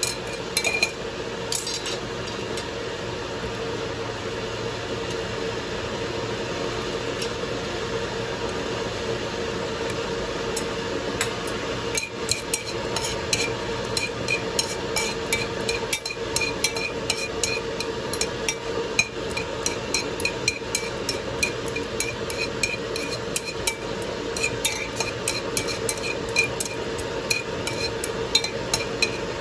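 Ginger slices sizzling in hot oil in a stainless steel pot, with a steady hiss. A utensil clinks and taps against the pot as they are stirred, the clinks coming thick and fast through the second half.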